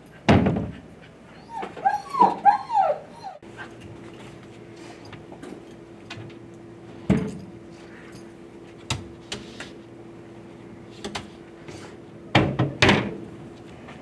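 A dog whimpering, with a quick run of short high yips about two seconds in, among several sharp knocks and thumps. A faint steady low hum starts a few seconds in.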